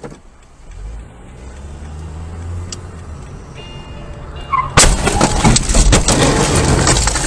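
A vehicle's engine running low and steady, then about five seconds in a sudden loud, harsh rushing noise that lasts a couple of seconds.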